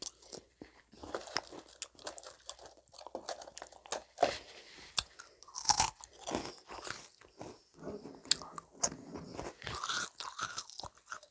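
Close-miked crunching and chewing of crisp meringue cookies, with irregular sharp crackles and a few louder snaps as the brittle shells break.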